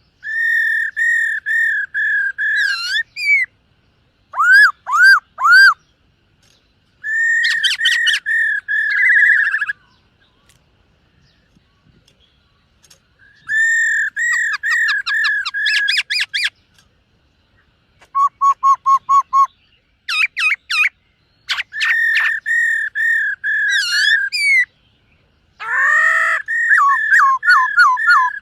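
Black-throated laughingthrush singing: about eight loud phrases of rapidly repeated whistled notes, broken by pauses of one to three seconds, with one run of lower notes and a few quick rising notes in between.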